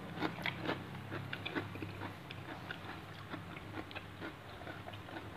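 A person chewing a mouthful of food with the mouth closed: irregular small wet clicks and crunches, several a second, over a faint steady low hum.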